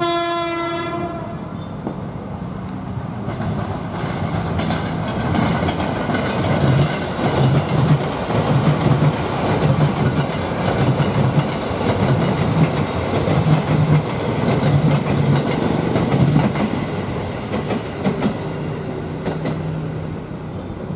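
Electric commuter train sounding a short horn note, then running past with a loud rumble and regular clacking of its wheels over the rail joints, swelling in the middle and easing off near the end.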